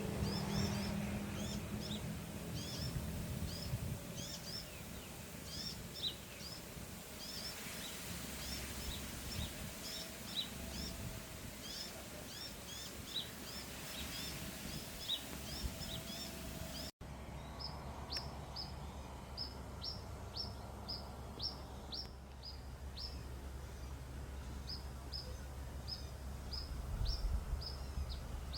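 Small birds chirping: quick, short, downward chirps repeated several times a second over a low outdoor rumble, broken by an abrupt cut about two-thirds of the way through before the chirping resumes.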